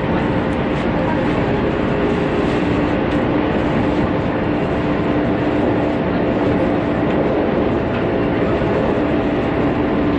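415 series electric train running at a steady speed of about 75 km/h, heard from inside the carriage: even running noise with a constant underlying hum.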